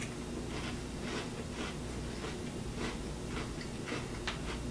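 Chewing of a milk-dunked chocolate sandwich cookie: faint, irregular soft crunches and mouth clicks, roughly two a second, over a low steady hum.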